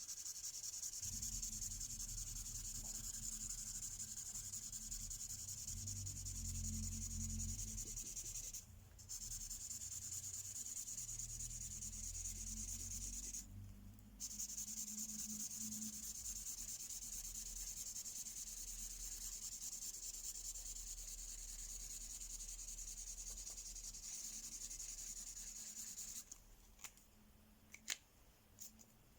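Mystery ink marker coloring back and forth on paper: a continuous scratchy rubbing that breaks off briefly twice, then stops, followed by a few light clicks near the end.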